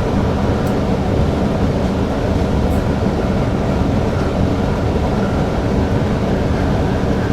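Newag Impuls EN63 electric multiple unit running along the line, heard from the driver's cab: a steady, dense rumble of the train in motion.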